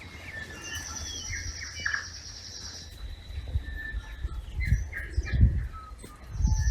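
Birds singing in native bush: short whistled and sliding notes, with a high buzzing trill held about two seconds, twice. Low rumbles and thumps come in the second half.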